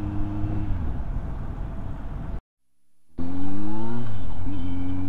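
Kawasaki Z900's inline-four engine running under way, with road and wind noise. The engine note drops about a second in as the bike slows, then the sound cuts out for most of a second and comes back louder, the note rising and then dipping at a gear change.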